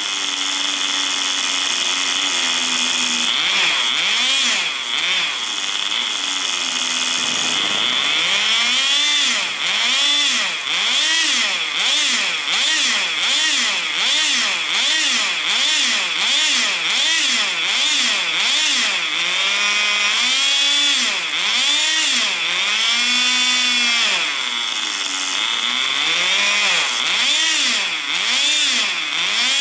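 Tamiya TGS 1/10 radio-controlled car's small nitro glow engine running at high revs. Its pitch is steadier for the first several seconds. From about eight seconds in it rises and falls about once a second as the throttle is opened and closed.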